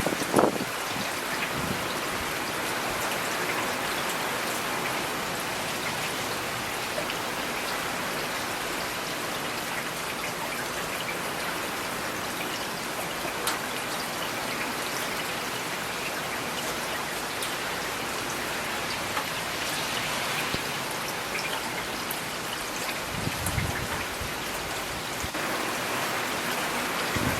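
Steady rain falling, with scattered individual drops ticking. There is a brief low rumble at the start and another about 23 seconds in.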